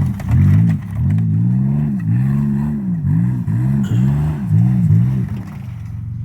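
Buick Century's GM 3.1 V6, its exhaust torn off, revved up and down about eight times in quick blips, then settling to a steady idle near the end.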